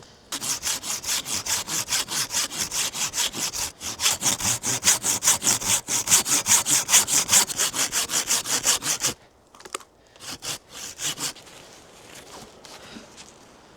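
Hand saw cutting through wood with quick, even back-and-forth strokes, about four a second, breaking off briefly near four seconds and stopping about nine seconds in. A few last strokes follow a second later.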